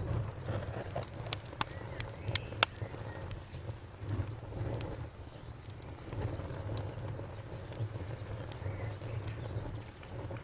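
Campfire crackling, with several sharp pops in the first few seconds. Crickets keep up a steady high chirping, and frogs croak in a low pulsing chorus underneath.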